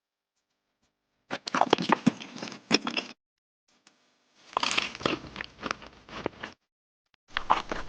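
Crisp crunching in three bursts of a second or two each, with silence between them.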